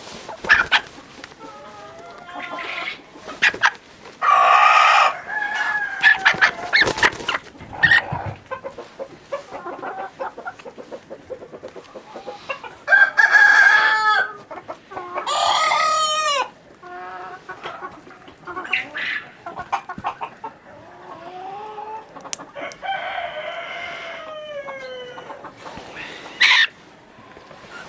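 Domestic chickens clucking and calling, with several loud drawn-out calls a second or so long, some falling in pitch.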